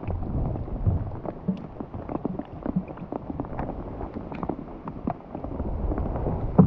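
Rain pattering close to the microphone: many irregular small taps over a low rumble.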